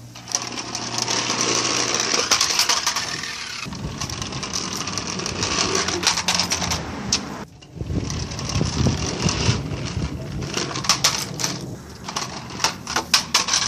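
Remote-control toy car running, its small motor whirring with a busy rattling and clattering as it drives over the track. The sound drops out briefly about halfway through, then comes back with sharper clicks and knocks near the end.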